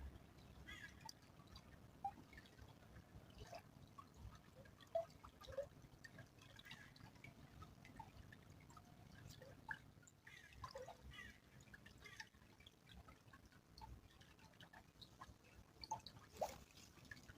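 Small stream trickling, with faint scattered drips and plinks of water over a soft low rush.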